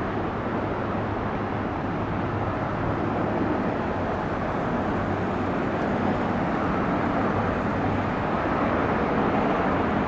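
Jet engine noise from an arriving Boeing 787-9 airliner: a steady rushing that grows slowly louder as the plane comes in.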